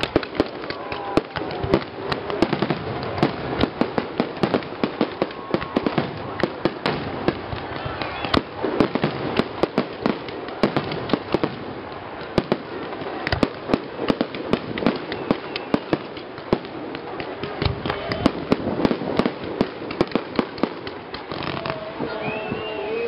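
Fireworks display: aerial shells bursting in a rapid, unbroken string of sharp bangs and crackles.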